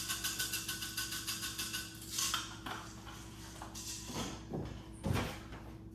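Salt shaken rapidly into a pot of pasta, a quick even rattle for about two seconds, followed by a few separate clatters of kitchen utensils against the pot.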